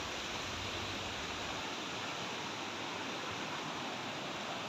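Steady rush of a river's flowing water, an even hiss without breaks.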